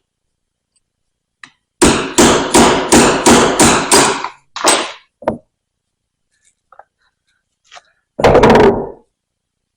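Hammer blows on metal knocking the shaft seal out of a Veljan vane pump housing: a run of about seven quick strikes, about three a second, then two more single strikes. A longer rattling knock of almost a second comes near the end.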